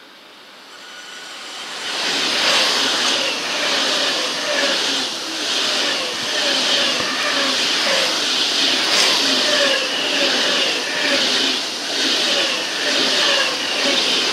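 ICE high-speed electric train passing close along the platform: a rushing of wheels on rail that builds over the first two seconds, then holds with a regular beat as the bogies roll past.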